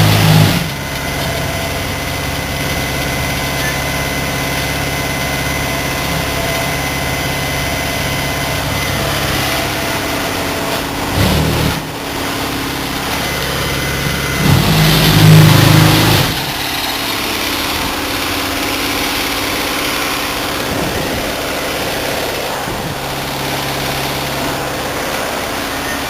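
Heavy truck's diesel engine running steadily, with two brief louder swells, one about 11 seconds in and a longer one around 15 seconds in.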